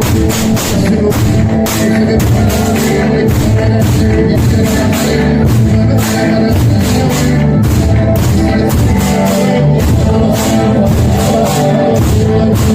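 Pastellessa music from a float band of bottari: barrels, tubs and sickles struck in a fast, steady beat, with singing over it.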